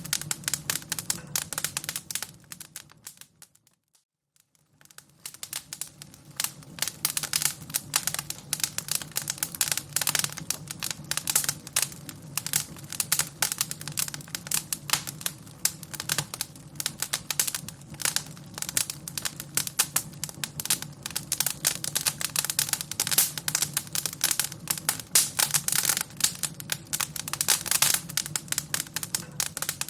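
Fire crackling with dense, irregular pops and snaps over a low steady rush. About three seconds in it fades out almost to silence for a second or so, then fades back in and keeps crackling.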